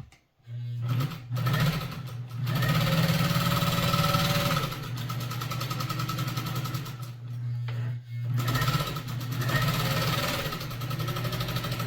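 Pfaff 130 sewing machine with its 'coffee grinder' stitch-pattern attachment running a pattern stitch, a little bit noisy. It starts about half a second in, stops briefly around eight seconds in, then runs again.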